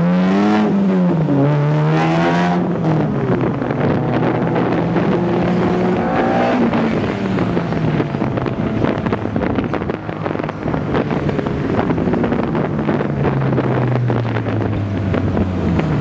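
Car engine held at high revs during a burnout, its pitch rising and falling over a dense hiss. The engine sound cuts off suddenly at the end.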